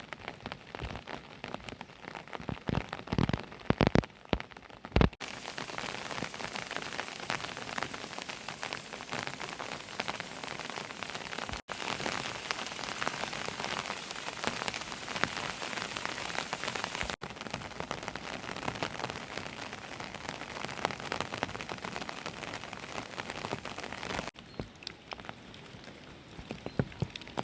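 Rain falling steadily, with separate heavy drops striking a surface in the first few seconds and again near the end. The sound changes abruptly several times.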